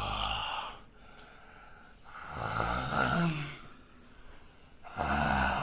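A person making three rasping, snore-like breaths, each about a second long and spaced about two and a half seconds apart.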